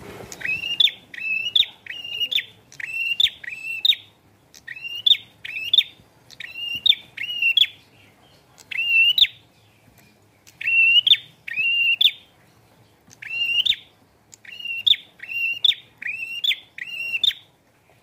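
A caged prenjak (prinia) singing vigorously: sharp, ringing chirps in quick runs of two to five notes, with short pauses between runs.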